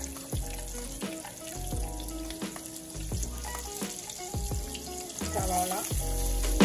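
Chopped garlic sizzling in hot coconut oil with cumin seeds in a wok, with sliced onions added near the end. Background music with a regular low beat plays over it.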